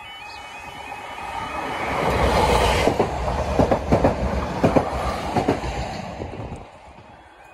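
A Greater Anglia Stadler FLIRT multiple unit passes over the level crossing. Its rumble builds from about a second and a half in, with a run of sharp wheel clacks over the rail joints in the middle, then dies away near the end. The crossing's two-tone warning alarm stops just as the sound begins.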